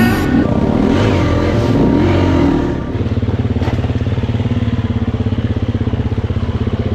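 Motorcycle engine revving up and down, then running steadily with a fast, even beat from about three seconds in.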